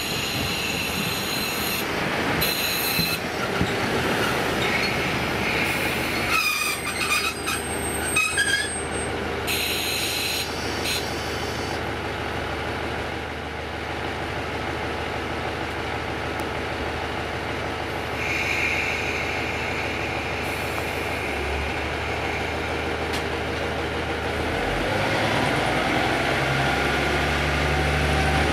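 KiHa 40 diesel railcar running on the track, with high wheel squeal and clatter in the first part. Near the end its diesel engine note rises and grows louder as it accelerates.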